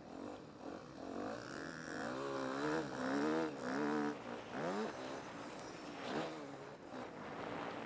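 Yamaha motocross bike's engine revving hard under the rider, its pitch climbing and dropping several times, with a quick climb about four and a half seconds in. Heard from the rider's helmet camera.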